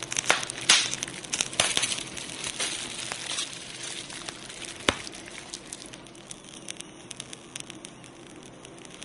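A wood bonfire crackling, with irregular sharp pops and snaps over a faint hiss. The pops are densest in the first couple of seconds, with a single loud snap about five seconds in.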